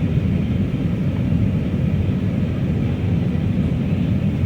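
Steady cabin noise inside an Airbus A319 airliner in flight: a constant low rumble of engines and airflow that does not change.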